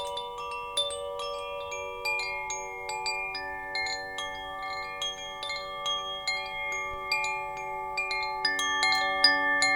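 Wind chimes ringing: metal tubes struck several times a second in an irregular pattern, each tone ringing on and overlapping the others. The strikes come thicker near the end.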